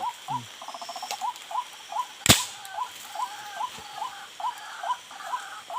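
Night animal calls: a short rising chirp repeated about three times a second, with fast buzzing trills over it. One sharp crack sounds about two seconds in.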